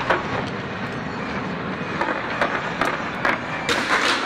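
Fireworks exploding in sharp, irregular bangs, several a second and clustering toward the end, over a steady rushing din.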